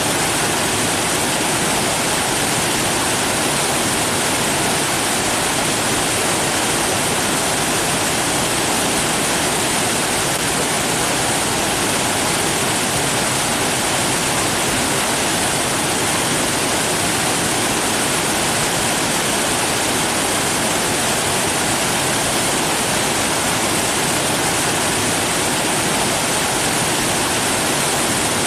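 Rushing water, a steady unbroken hiss and roar with no changes.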